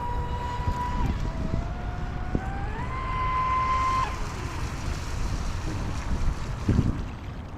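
Pro Boat SonicWake 36 RC boat's electric motor whining as it runs across the water: the pitch drops about a second in, climbs back up, then cuts off about four seconds in. Wind and water noise remain after it stops.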